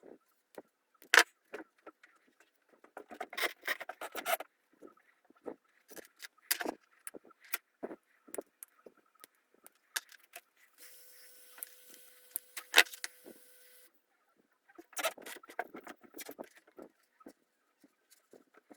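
Scattered clicks, taps and knocks of small hard parts being handled, some in quick clusters. Near the middle a steady hum with a single held tone runs for about three seconds.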